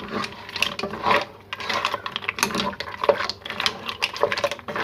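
Kitchen utensil clicking and scraping against a cooking pot as the soup is stirred, a quick irregular run of small clicks and knocks.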